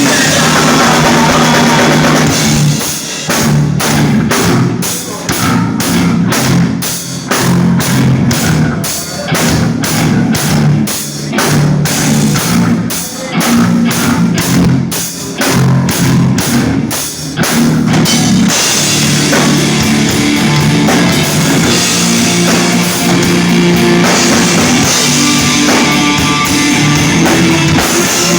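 Live rock band playing loud, drum-led, with evenly spaced hits about twice a second. About eighteen seconds in, the full band comes in and the sound becomes denser and more sustained.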